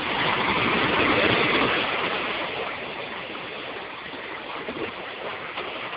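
Sea waves breaking and washing up the shore, swelling over the first two seconds and then easing off.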